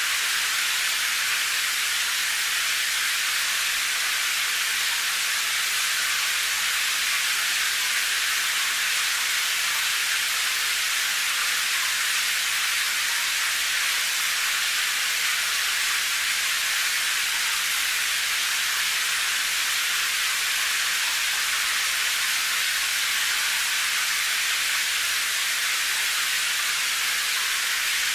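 Steady rain: an even, unbroken hiss with no separate drops or rumbles standing out.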